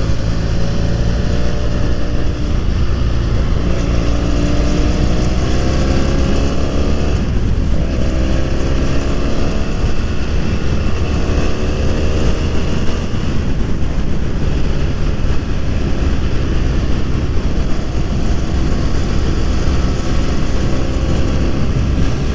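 BMW F 800 R's parallel-twin engine accelerating on the road: its pitch climbs, drops once about seven seconds in at a gear change, climbs again, then holds steadier at cruise. Heavy wind rumble on the action camera's microphone runs underneath.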